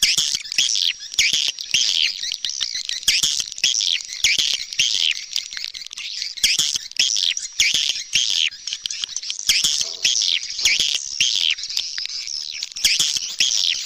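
Swiftlet calls, a dense, unbroken chorus of high twittering chirps from many birds. This is the edited lure call ('suara panggil luar') played outside a swiftlet house to attract birds to nest.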